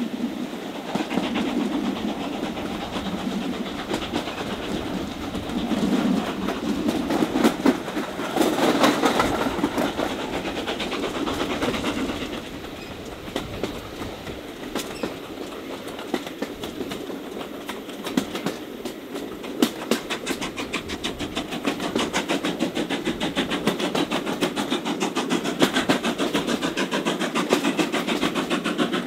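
Steam-hauled heritage passenger train heard from inside a carriage: a steady running rumble with wheels clicking over the rail joints. It is louder for a few seconds early in the run, then quieter, and the clicks come thick and regular toward the end.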